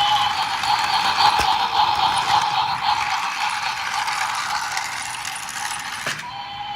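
Steady whirring and rattling of a small geared mechanism, with one click about a second and a half in; it slowly fades and cuts off suddenly near the end.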